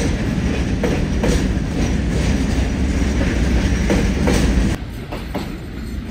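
Freight train of container wagons rolling past: a steady heavy rumble of steel wheels on the rails, with repeated clicks as the wheels cross rail joints. Nearly five seconds in it turns suddenly quieter, and a fainter rumble carries on.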